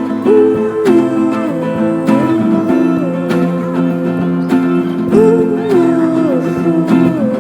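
Instrumental passage of a band's song: acoustic guitar strumming under a lead line that slides between long held notes.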